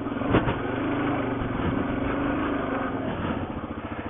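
Suzuki DR-Z400 dual-sport motorcycle's single-cylinder four-stroke engine running at a steady pitch, with a brief knock about half a second in.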